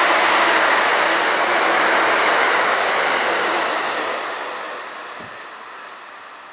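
Amtrak passenger train running past at speed, a loud steady rush of wheels and air. It fades away from about four seconds in as the rear of the train passes and recedes.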